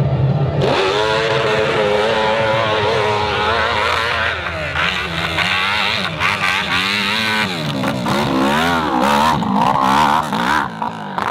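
Off-road motorcycle engine revving hard under load, its pitch climbing and dropping again and again as the throttle is worked.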